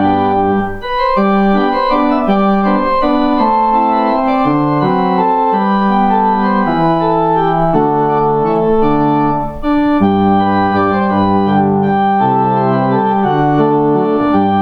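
Organ playing slow sustained chords, with two short breaks between phrases.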